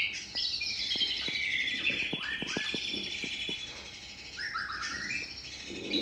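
Male white-rumped shama singing: a continuous run of rapid chirps and warbled notes, with several quick downward-sliding notes midway and rising phrases near the end.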